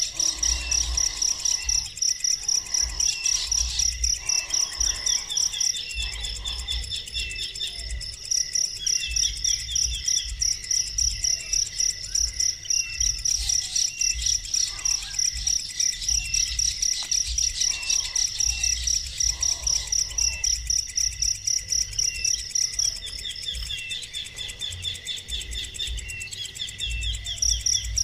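An insect chirping in a steady, fast pulsed rhythm of several high chirps a second, pausing briefly twice. Short trilled bird calls sound alongside it, and a faint low rumble runs underneath.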